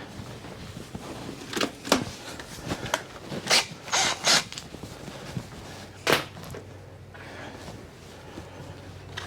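Hand tools and storm-door hinge hardware being handled: about six short clicks and knocks, bunched in the first half, over a faint steady hum.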